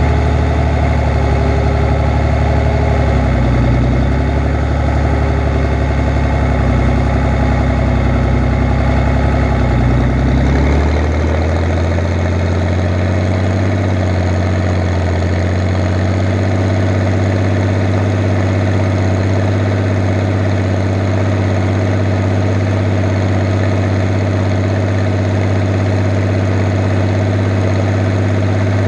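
Fiat 110-90 tractor's diesel engine running steadily while pulling a Pöttinger Servo 25 plough. About eleven seconds in the engine note changes and then holds an even pitch.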